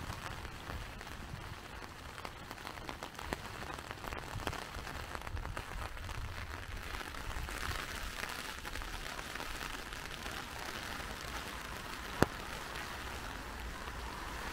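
Rain falling, with many small drop ticks over a steady hiss that grows fuller from about halfway through. A single sharp click comes near the end.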